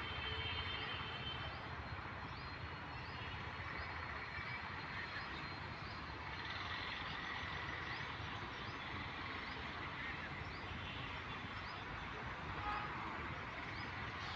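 Steady rushing outdoor background noise, with faint, short bird chirps over it.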